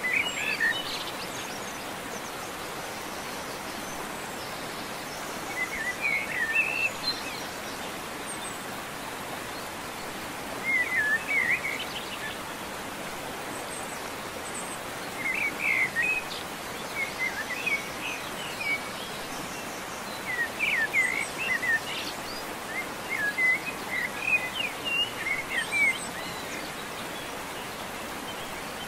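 Birds chirping in short clusters every few seconds over a steady background hiss.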